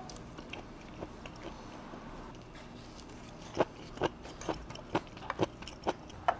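A man chewing a mouthful of food over a low steady room hum. From about three and a half seconds in come a string of sharp clicks, about two a second, as chopsticks tap against the dishes while he picks up more food.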